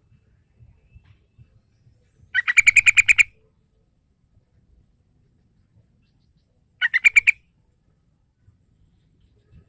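Yellow-vented bulbul (trucukan) calling: two bursts of rapid chattering notes, the first about a second long, a shorter one about 7 seconds in, played as a lure call to draw other bulbuls.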